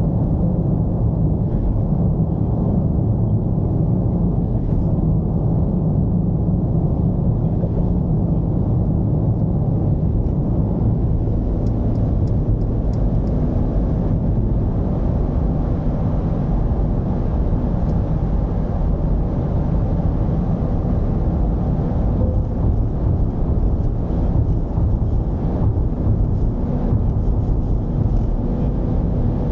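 Mercedes-Benz V220's diesel engine running steadily with road noise while cruising: a constant low rumble with no revving.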